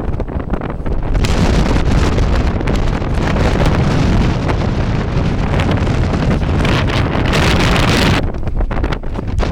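Strong desert wind of a sandstorm buffeting the microphone in loud gusts. A harder gust picks up about a second in, hisses hardest shortly before the end, then eases.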